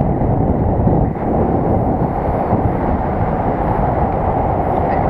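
Strong wind buffeting the microphone: a loud, steady rush of low noise.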